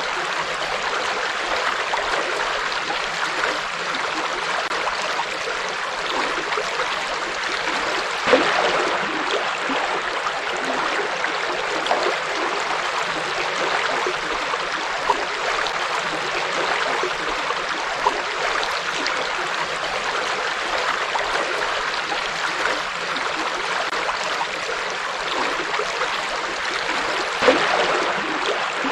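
Forest river flowing over rocks: a steady rushing and babbling of water, with a few brief splashes standing out about eight seconds in and near the end.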